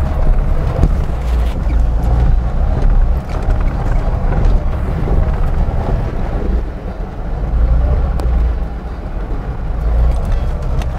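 Lada Niva's engine running as the car drives through deep mud, with wind rumbling on the microphone.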